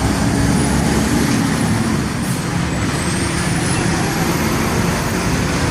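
Heavy diesel truck engine running with a steady low rumble over traffic and tyre noise. A faint, thin high whine dips and then climbs in pitch after about three seconds.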